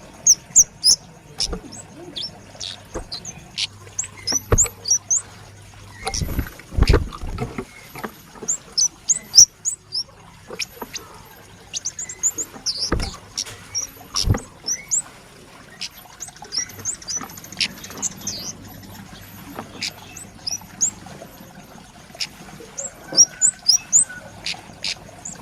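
A young kemade flowerpecker calling in quick runs of short, high, sharp chirps, with a few sharp knocks among them.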